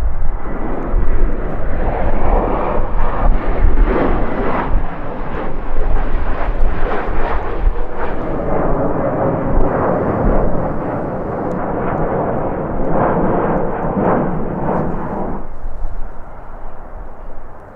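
Jet airliner passing close by, its engines making a loud rushing noise with a faint steady whine, which dies away about fifteen seconds in. Strong gusting wind buffets the microphone throughout with a low rumble.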